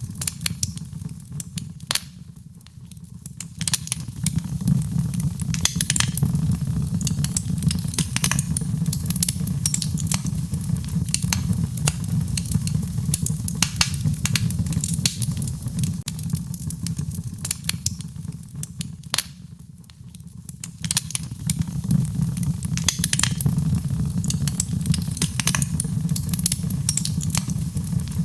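Fireplace fire crackling and popping, with frequent sharp snaps over a steady low rumble of flames. The rumble dips briefly twice, early on and about two-thirds of the way in.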